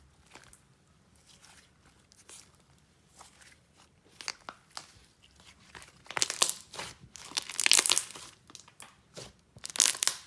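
Jelly slime being stretched and squished by hand, making wet crackling and popping sounds. Faint and sparse at first, with louder, denser crackling from about six seconds in and again near the end.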